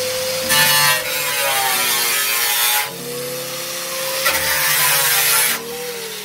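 Power tool cutting, in two loud passes of about two seconds and one second, with the tool running more quietly between them.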